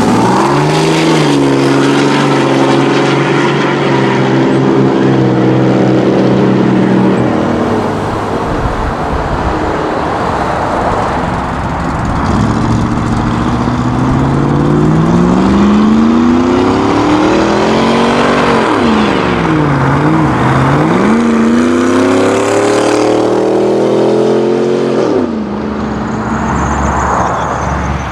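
Car and truck engines accelerating away one after another, with passing road traffic in between. First comes a steady engine drone. After about twelve seconds an engine revs up, its pitch climbing, dropping twice and climbing again, then cuts off suddenly near the end.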